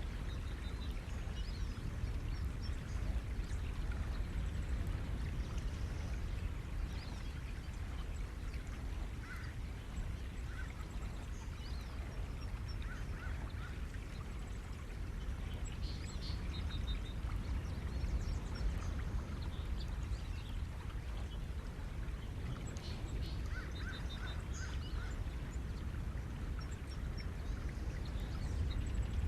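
Ocean surf on a shore, a steady wash of waves, with small birds chirping now and then in short runs of repeated notes.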